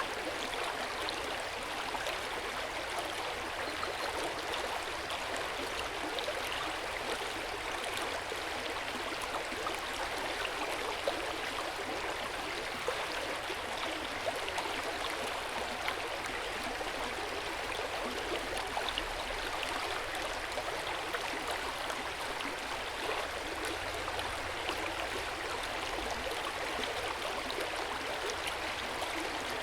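Hot-spring water flowing steadily into an open-air onsen bath: a continuous gentle splashing and gurgling of water, with a few brief drips standing out.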